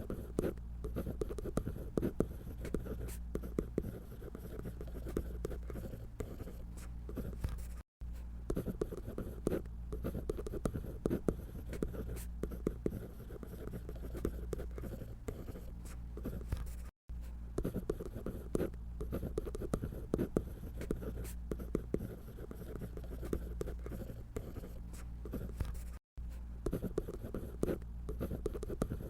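Scratchy drawing strokes of a drawing tool on paper, many quick strokes in a row, cutting out for an instant three times.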